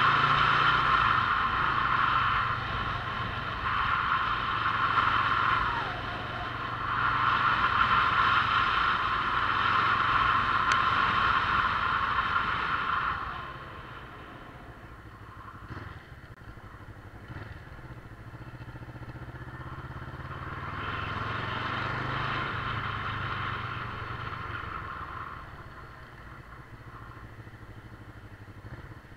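Motorcycle engine running while riding, loud through the first half, easing off about halfway, then picking up again and easing near the end.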